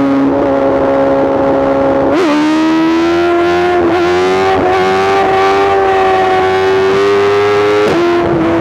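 2024 BMW S1000RR's inline-four engine with a full Arrow exhaust system, running hard at speed. The note jumps up about two seconds in, climbs slowly as the bike accelerates, and drops a step near the end.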